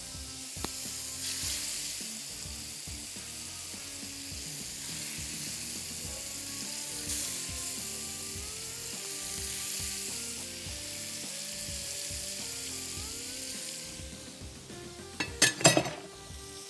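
Chicken satay skewers sizzling in hot oil on a grill pan, a steady frying hiss, with soft background music underneath. Near the end the sizzle drops away and a short loud sound stands out.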